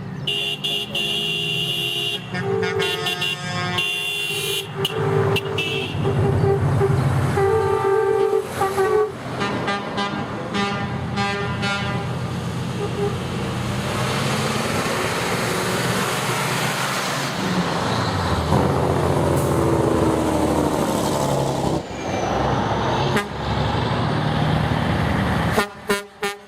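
Vehicle horns honking in repeated blasts as a convoy of trucks passes, followed by the loud, steady noise of the passing trucks' engines and tyres.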